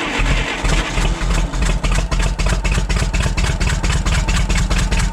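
Forklift's gasoline engine turning over with a fast, regular pulsing beat, while a spark plug is being tested outside the head in its wire's boot to chase a misfire.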